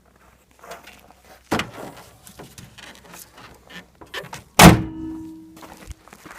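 The hood of a Dodge Ram pickup being shut: handling noises and a thud about a second and a half in, then a loud slam about four and a half seconds in with a brief metallic ring.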